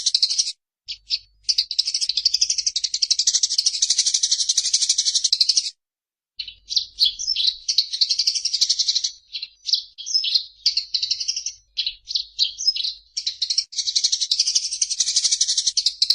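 Eurasian tree sparrows giving the excited, rapid chattering calls of fighting birds, in long rolling runs of high-pitched chirps. The runs break off briefly twice and go choppy in the middle before running on again.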